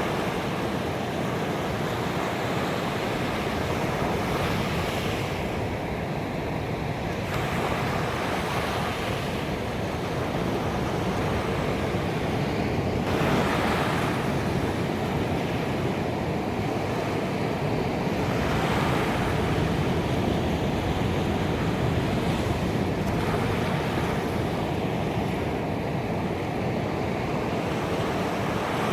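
Ocean waves breaking on a beach: a continuous wash of surf, with a wave breaking and swelling louder every four to five seconds.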